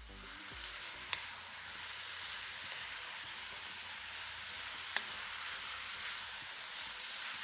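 Minced meat with onions, sweet peppers and herbs sizzling in hot oil in a wok: a steady frying hiss, with two short clicks of a utensil against the wok.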